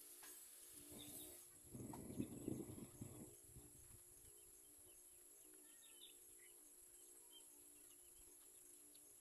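Faint outdoor ambience: a few small birds chirping, over a steady high hiss, with a brief low rumble about two seconds in.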